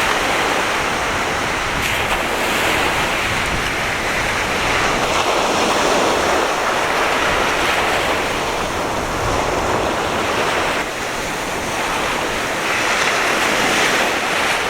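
Rough sea surf breaking and washing continuously in slow surges, the swell left after a typhoon, with a little wind on the microphone.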